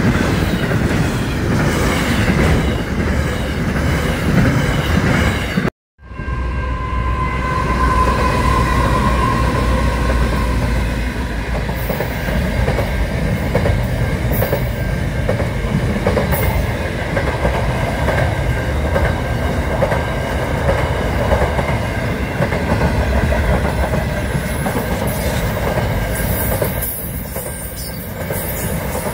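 Container freight train wagons rolling past, a steady loud rumble of wheels on the rails. The sound cuts out for a moment about six seconds in, then another container train passing the same way takes over.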